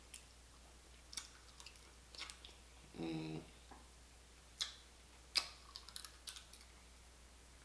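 Close-up eating sounds of a person chewing boiled blue crab meat picked from the shell: scattered wet mouth smacks and clicks, with a short hummed "mm" about three seconds in.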